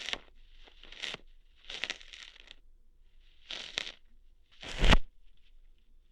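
Close-miked ASMR ear-hair plucking: about five short scratchy rustles, each ending in a sharp pluck-like snap, the loudest about five seconds in.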